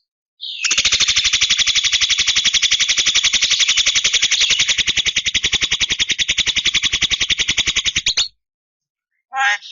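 Javan myna giving a long, harsh rattling call: an even stream of rapid pulses lasting about eight seconds that stops abruptly. Near the end a gliding whistled note begins.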